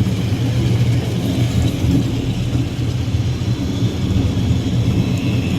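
Steady low rumble of a cable-hauled funicular tramcar running on its rails, heard from on board.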